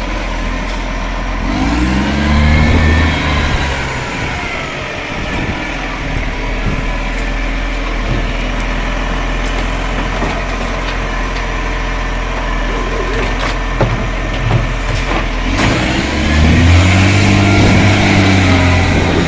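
Garbage truck's diesel engine running, revving up and back down twice, near the start and again near the end.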